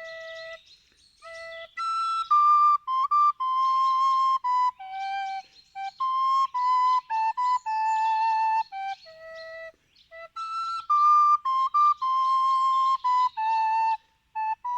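Solo flute-type wind instrument playing a slow melody one note at a time, with held notes and short breaths between phrases. A phrase beginning about two seconds in is repeated about ten seconds in.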